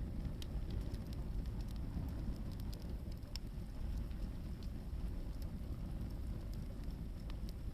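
Hardwood firewood burning in an open fire: scattered sharp crackles and pops over a steady low rumble.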